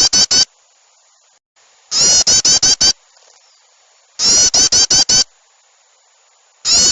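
Recorded bird-lure call of agitated bulbuls (trucuk) and small birds: loud bursts of rapid scolding chatter, about eight notes in a second. The bursts last about a second and recur roughly every two seconds.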